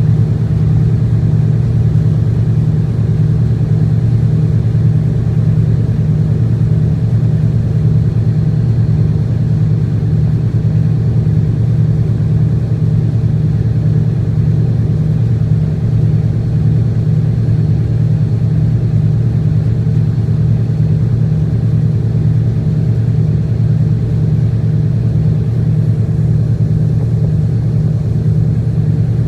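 Tugboat's engine running at a steady speed, a loud even low drone with no change in pitch.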